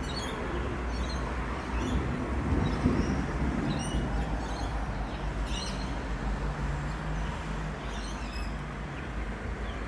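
Thunderstorm outdoors: a steady low rumbling noise that swells about two to three and a half seconds in, with birds chirping intermittently over it.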